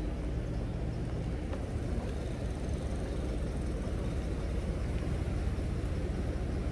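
Steady low rumble of wind on the microphone and road noise while riding a fat-tyre e-bike.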